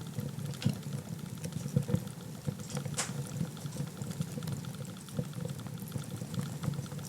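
Wood fire burning in a fireplace: a steady low rush of flames with scattered crackles and one sharp pop about three seconds in.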